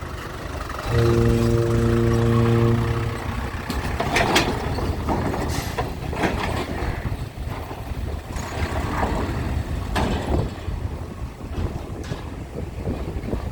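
A single deep horn blast of about two seconds, held at one steady pitch, starting about a second in; after it a continuous low rumble with irregular noisy swells.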